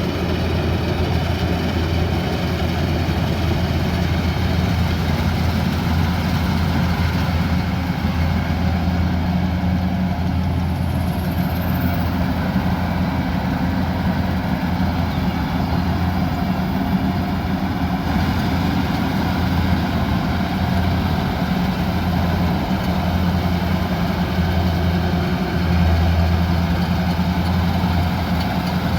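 Kubota combine harvester's engine running steadily with a constant low hum, swelling briefly near the end.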